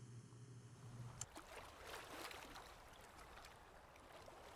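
Near silence: faint outdoor ambience, an even hiss with a few soft ticks.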